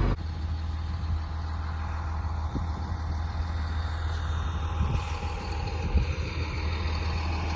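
Tractor engine running steadily with a low drone, with a few faint knocks about two and a half, five and six seconds in.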